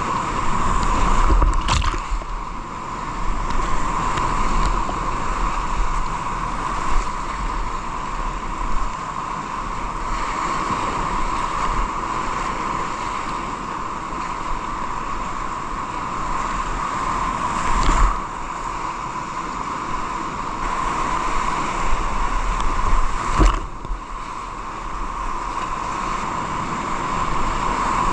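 Steady rush of moving water heard from a kayak, with wind buffeting the microphone and a few sharp knocks.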